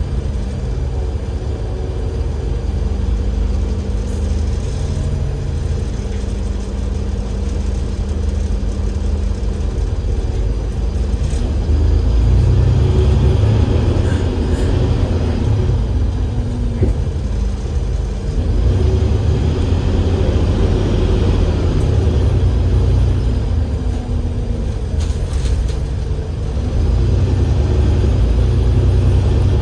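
Enviro500 MMC double-decker bus with a Cummins L9E diesel engine and ZF Ecolife automatic gearbox, running with a steady low rumble. A held engine tone in the first few seconds gives way to a louder stretch about twelve seconds in, which eases twice and builds again near the end as the bus pulls away and slows.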